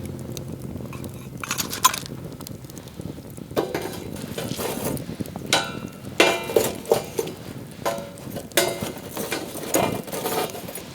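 Utensils and dishes clinking and knocking together: irregular sharp clinks, some ringing briefly.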